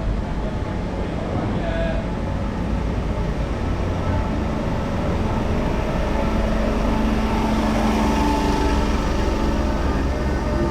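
A train running close by: a steady heavy rumble, with a humming tone that comes in about halfway and grows louder.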